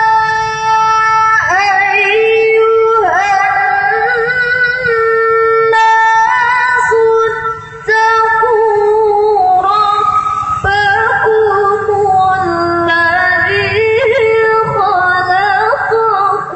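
Melodic Quran recitation (tilawah) by a qari: one voice holding long notes and weaving ornamented runs that rise and fall, with a short breath pause about eight seconds in.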